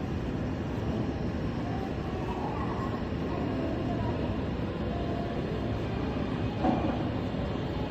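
Steady low rumble of a moving vehicle, with a brief knock about two-thirds of the way through.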